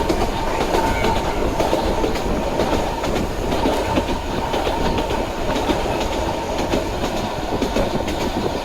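Hokusei Line 762 mm narrow-gauge electric train running along the track, its wheels clicking over rail joints, with a faint steady whine from its nose-suspended traction motors.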